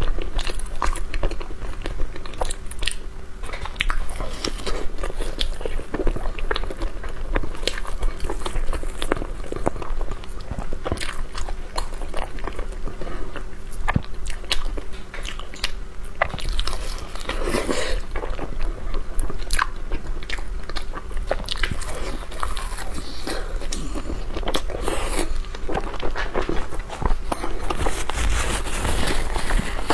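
Close-miked eating sounds of a person biting and chewing a snow taro paste pastry with egg yolk filling: many irregular small mouth clicks.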